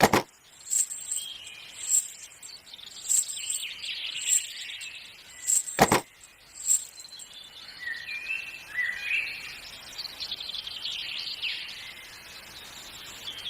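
Birds chirping, with a short high chirp repeating about every 0.7 s and rising and falling calls, mostly in the middle of the stretch. Two sharp clicks, one at the start and one about six seconds in.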